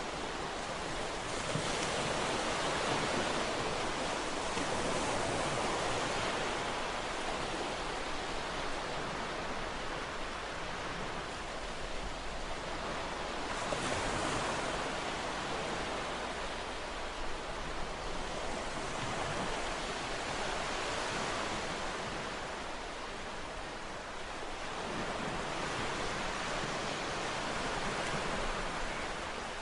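Ocean waves breaking and washing on the shore, a steady surf hiss that swells and eases as each wave comes in.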